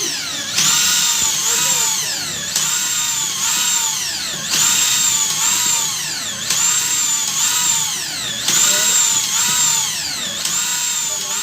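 A 13 mm electric drill drives a PCP air-rifle hand pump through a homemade crank mechanism. The motor's whine drops sharply in pitch and recovers about every two seconds as each pump stroke loads it.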